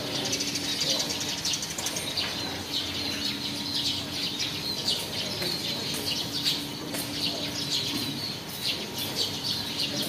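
Birds chirping and twittering, many quick high-pitched notes, over a steady low hum.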